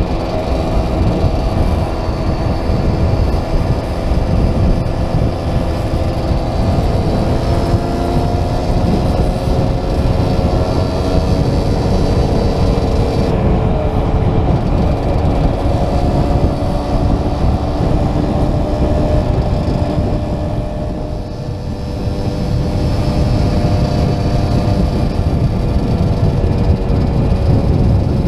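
Several small classic motorcycle and moped engines, largely two-strokes, running together on the road, with wind rushing on a helmet-mounted microphone. The engine pitches rise and fall slowly as the riders change speed, and the sound eases briefly about two-thirds of the way through.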